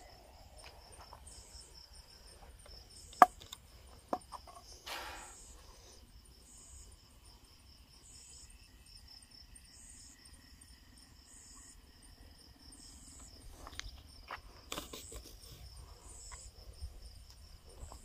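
Night insects, crickets, chirping: a steady high trill with pulsed chirps about every second and a half. A sharp click stands out about three seconds in, with a few fainter knocks and rustles later.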